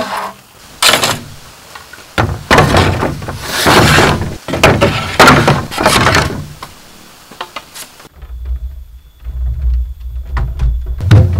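A hand saw cutting bamboo: a run of rasping strokes about once a second. The strokes stop a couple of seconds before the end, and a steady low rumble follows.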